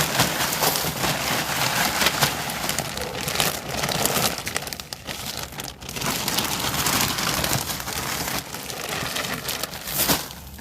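Loose mulch being poured and spread by hand in a plastic storage tote: a dense, continuous rustling crackle that eases briefly about five seconds in.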